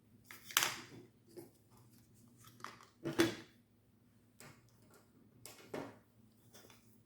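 Vacuum accessories being handled and packed into a soft accessory bag: about four short rustling scrapes and knocks, with a few fainter clicks between them.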